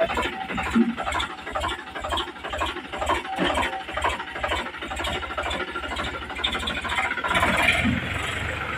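Tractor diesel engine running with an even, fast low chugging, growing louder and fuller about seven seconds in.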